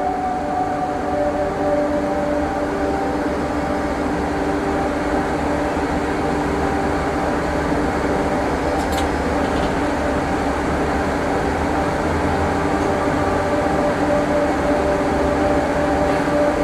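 Inside a city bus under way: a steady low rumble, with a whine of several held tones from the drivetrain over it. A faint click comes about nine seconds in.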